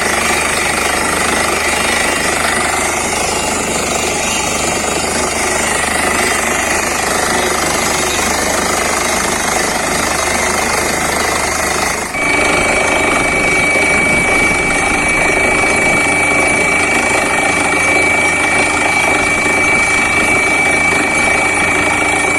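Borewell drilling rig running at full power, a loud continuous clatter with a steady whine. About halfway through the sound shifts suddenly and a higher, steadier whine takes over.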